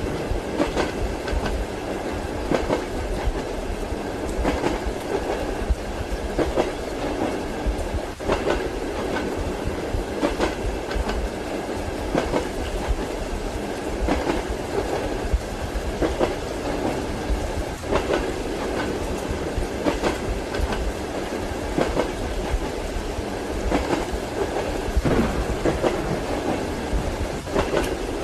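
Train wheels clacking over rail joints, with sharp knocks coming about every two seconds, often in pairs. Under them runs the continuous rumble of a moving railway carriage, with a soft hiss of rain.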